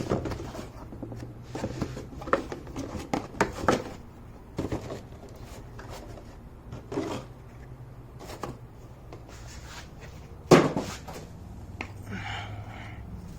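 Engine air filters and their plastic housing being handled: scattered light clicks, taps and rustles, with one sharper knock about ten and a half seconds in.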